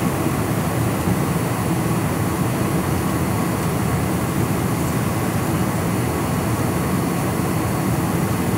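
Boeing 747-400 on its landing approach: steady jet engine and airflow noise, a constant low rumble with a faint steady whine, holding even throughout.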